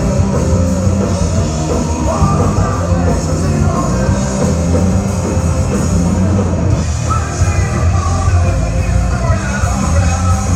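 Rock band playing loud with a lead vocal singing over it.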